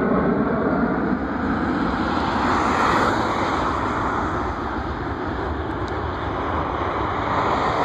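Jet engines of a Southwest Boeing 737 on its takeoff run and climb, heard as a steady, loud rushing rumble that swells slightly about three seconds in.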